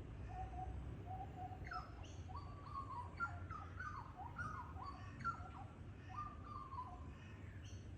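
A bird singing a run of short whistled notes, many sliding downward, with fainter high chirps from other birds. Underneath is a steady low rumble of wind.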